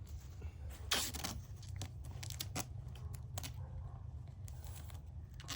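Handling noise: a series of sharp crunches and clicks, the loudest about a second in, over a steady low rumble.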